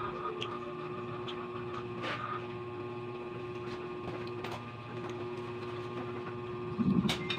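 Close-up chewing and mouth smacks while eating with the fingers, as a few scattered soft clicks over a steady electrical hum from an appliance in the room, with a brief louder low sound near the end.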